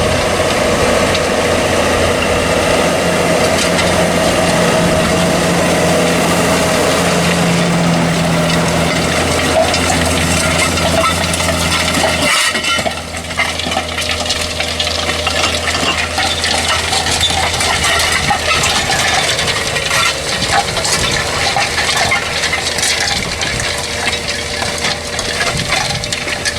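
Tractor engine working under load as it pulls a set of cultivator discs through stony soil, with a constant clatter and clinking of discs and stones over the engine's steady hum. About halfway through, the sound changes abruptly: the engine note drops back and the rattling clatter takes over.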